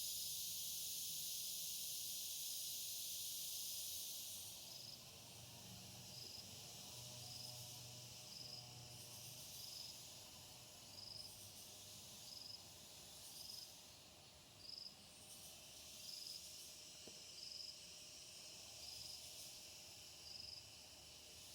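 Insects calling: a dense high buzzing that thins out about four seconds in, after which a short high chirp repeats a little more than once a second.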